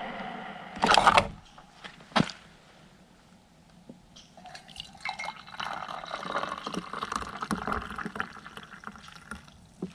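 Two knocks, then liquid being poured into a container for about five seconds, a steady splashing pour.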